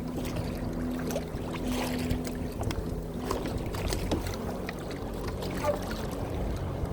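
A kayak on open water, with water and wind noise and scattered clicks and knocks of gear against the hull.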